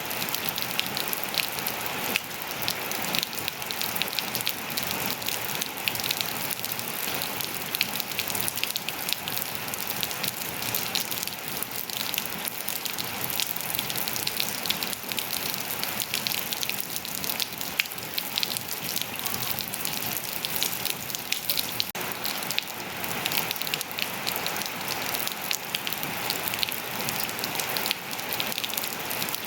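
Steady rain falling on hard surfaces, a dense hiss with many close, crisp drop ticks.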